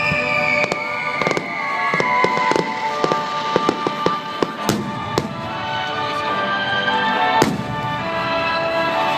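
Aerial fireworks bursting and crackling over the accompanying music of the show. Many sharp bangs come in quick clusters, and the two loudest come about halfway through and near the end.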